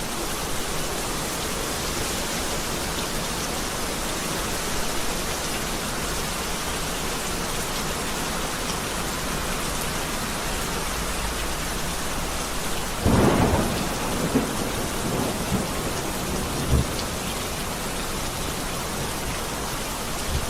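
Heavy rain falling steadily, with a rumble of thunder about two-thirds of the way through and a few shorter low rolls after it.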